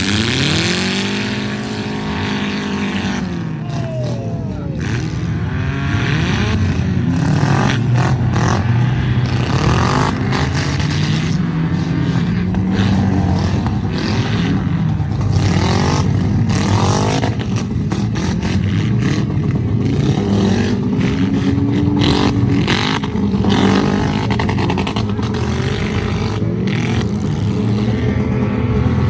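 Several truck and tractor engines revving up and down at once in a demolition derby, with many sharp knocks and bangs scattered through.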